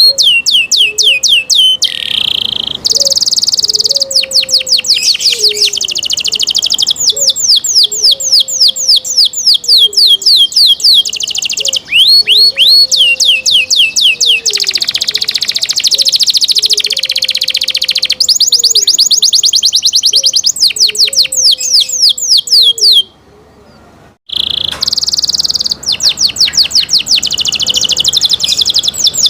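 Domestic canary singing: fast trills of repeated high, downward-sweeping notes that switch to a new pattern every few seconds, with a short pause about four-fifths of the way through.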